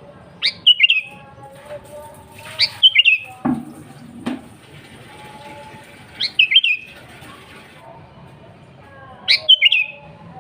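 Sooty-headed bulbul calling: four short bright phrases a few seconds apart, each a quick run of notes dropping in pitch. Softer, lower warbling carries on underneath, and a couple of dull low knocks come near the middle.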